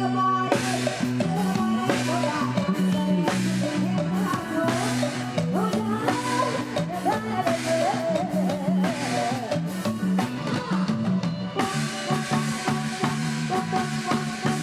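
Live band music with a drum kit keeping a steady beat and a bass line, and a wavering melody line over it through the middle.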